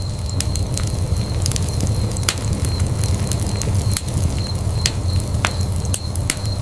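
Wood fire burning in a fireplace: a steady low rumble of the flames with irregular sharp crackles and pops of the burning wood, several a second.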